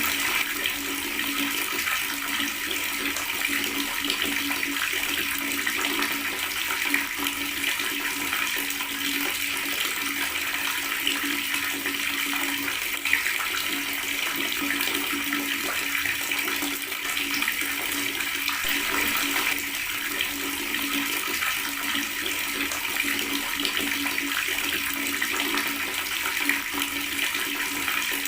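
Water running steadily from a tap and gurgling, a continuous splashing rush with no pauses.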